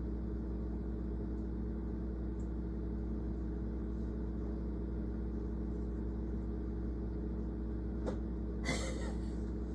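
Steady low mechanical hum with a few faint clicks near the end.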